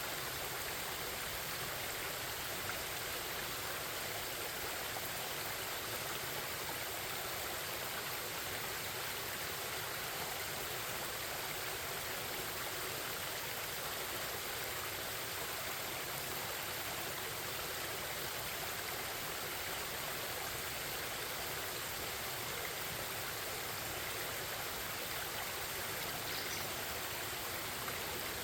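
Forest stream running steadily, an even, unbroken rush of babbling water.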